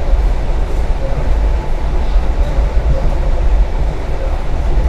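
Passenger train in motion, heard from inside the carriage: a steady, loud low rumble of running gear and wheels on the rails.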